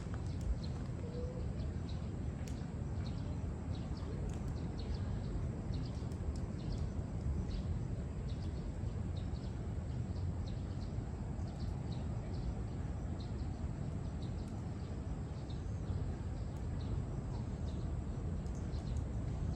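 Steady low outdoor rumble, with scattered short ticks and faint bird chirps over it.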